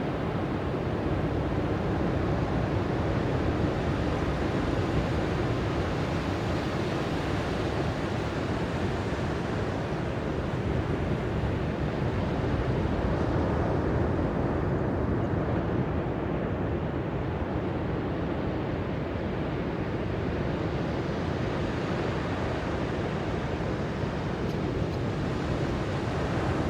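Ocean surf washing onto a beach: a steady rush of noise that swells and eases slowly, with wind rumbling on the microphone.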